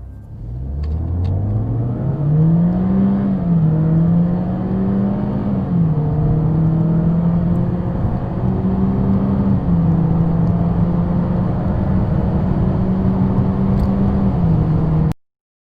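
A BMW car engine under full-throttle acceleration from a standstill. Its pitch climbs steeply for about three seconds, then steps down and rises again several times as the gearbox shifts up. The sound cuts off suddenly near the end.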